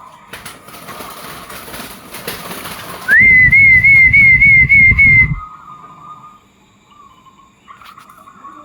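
A loud, wavering whistle lasting about two seconds, after a few seconds of rough hiss; near the end, zebra doves (perkutut) coo softly in a quick run of repeated notes.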